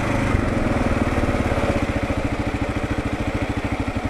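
Kawasaki KLR650's single-cylinder four-stroke engine idling with a steady, even beat.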